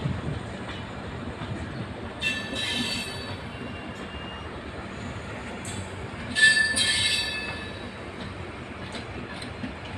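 Passenger coaches of an Indian Railways express rolling past on the track, with a steady rumble of wheels on rail. Twice a high-pitched wheel squeal rings out, about two seconds in and again, louder, about six and a half seconds in.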